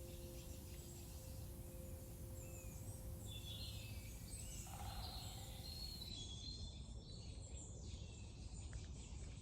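Wild songbirds chirping and trilling, many short high calls overlapping, with one lower call about halfway. Under them, a steady low rumble of outdoor ambience and a held two-note ringing tone that fades out about halfway.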